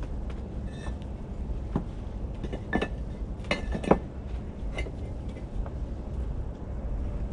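Bricklaying: a handful of sharp knocks and clinks of a trowel and bricks as the fireplace's inner lining bricks are set on edge, the strongest two close together near the middle, over a steady low rumble.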